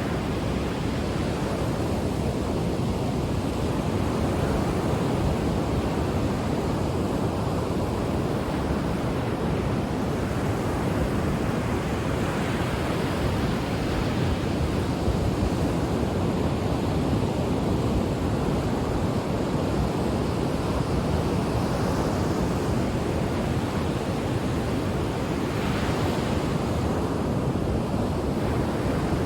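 Ocean surf washing onto a shore: a steady rush of breaking waves, with a few waves swelling brighter as they break, the clearest one near the end.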